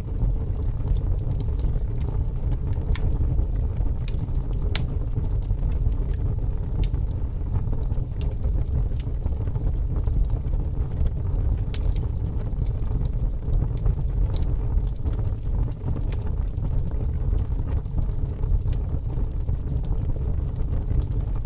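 Fire burning with a steady low roar and scattered sharp crackles and pops.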